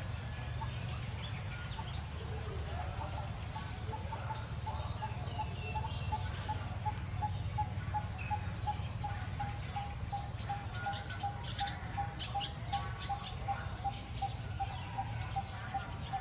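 A bird repeats one short note at an even pace, about two or three times a second. Brief higher chirps come in around the middle, over a steady low rumble.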